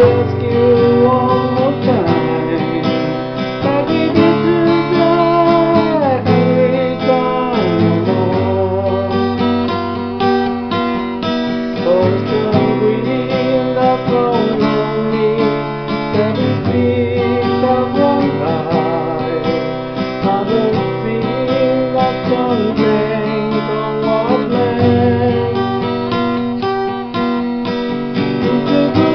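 Acoustic guitar strumming chords of a slow folk song, with a wavering melody line carried above it.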